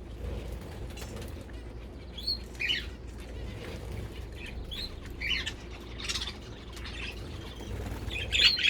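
Small aviary finches giving short chirping calls every second or two, with a louder cluster of chirps near the end, amid wing flutters as birds move about.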